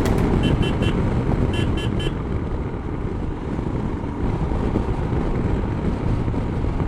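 Royal Enfield Himalayan's single-cylinder engine running steadily while the motorcycle is ridden along the road. In the first two seconds, two quick runs of three short high beeps sound over it.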